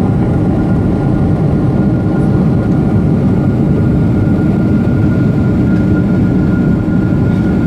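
Boeing 747-8 cabin noise: a steady, loud rumble of its GEnx jet engines and the airflow, heard from a passenger seat, with a thin steady whine over it.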